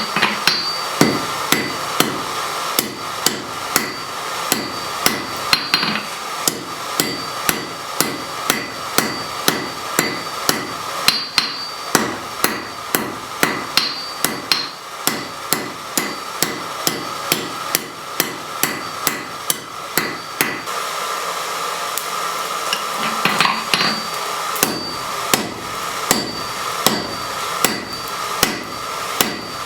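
Blacksmith's hammer striking metal on an anvil in a steady rhythm, about two blows a second, many with a high ring. The blows stop for about three seconds roughly two-thirds of the way through, then resume, over a steady hum.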